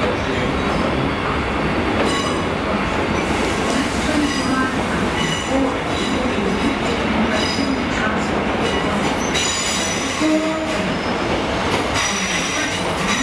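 Long freight train of bogie box wagons rolling steadily past, a continuous rumble of wheels on rail with repeated short, high-pitched wheel squeals.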